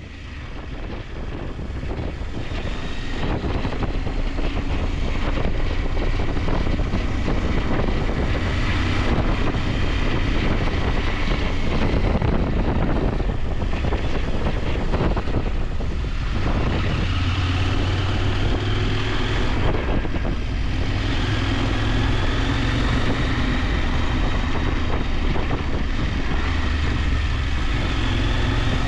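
KTM 890 Adventure's parallel-twin engine running under way, its revs rising and falling as it rides, with wind noise on the microphone. The sound fades in over the first few seconds.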